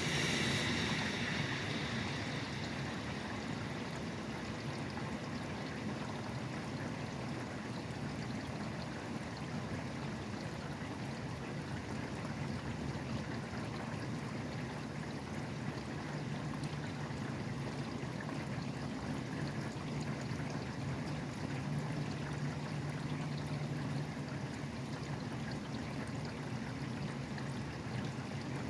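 Steady rain falling, with the low rumble of highway traffic under it. A louder hiss at the start fades away over the first two seconds.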